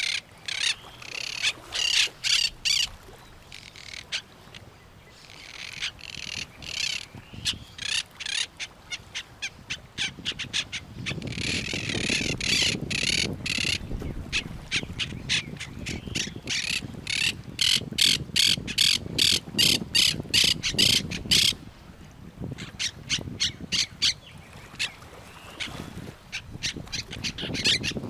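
Pond birds, parrots among them, squawking and chirping in fast runs of short sharp calls, about three or four a second at the busiest. A lower steady rushing noise sits under the calls through the middle stretch.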